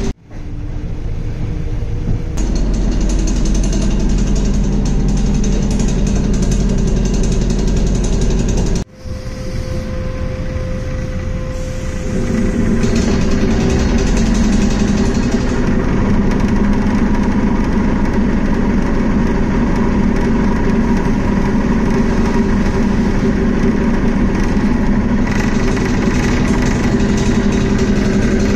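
Steady running noise of a passenger train heard from inside the carriage: a low rumble with a hum. It drops out briefly about nine seconds in, then grows fuller and louder from about twelve seconds.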